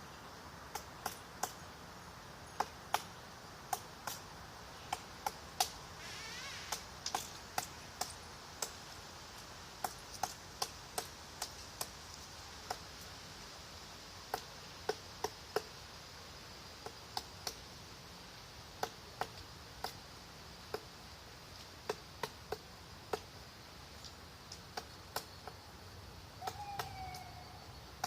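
Woodpecker pecking at wood: sharp single taps at an uneven pace, one to three a second, over a faint steady high hiss. Near the end a bird gives a short call that falls in pitch.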